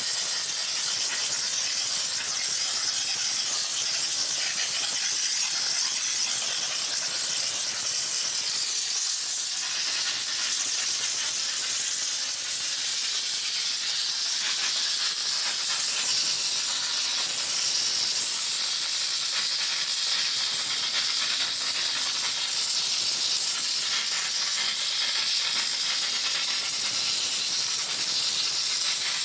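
Steady hiss of high-pressure steam jetting from the spray wand of a small 20-bar LPG-fired steam car-wash machine, running continuously without a break.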